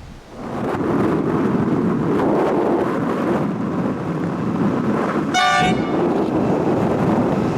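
Diesel-hauled freight train passing close by: its noise rises sharply about half a second in and stays loud and steady, with one short horn toot about five and a half seconds in.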